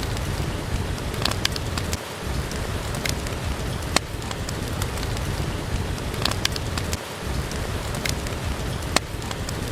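Steady rain falling, with a crackling wood fire in a fireplace giving sharp pops every second or two.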